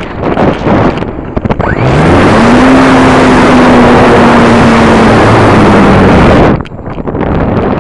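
Heavy wind rushing over the microphone along with a model combat plane's small engine, whose tone climbs and then holds steady. The loud rush cuts off about six and a half seconds in.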